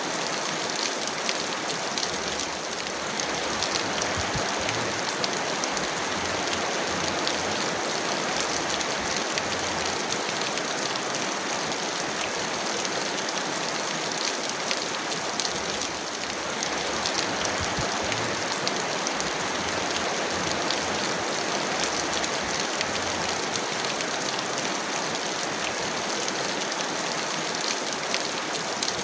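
Heavy rain falling steadily, a dense patter of many small drops with no thunder.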